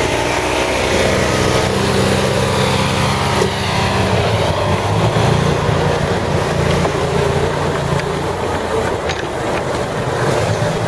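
Amphibious six-wheel ATV engine running steadily under load, over a constant rush of noise.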